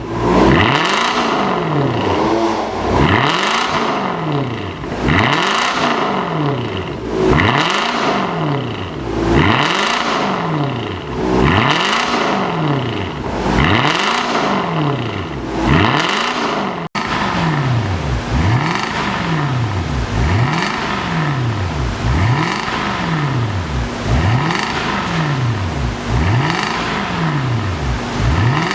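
Jaguar XJ Vanden Plas 4.0 V8 with an aftermarket valved dual exhaust, revved repeatedly while stationary: about fourteen rev blips, each rising and falling, roughly one every two seconds. A momentary break comes about two-thirds of the way through, and the revving then carries on.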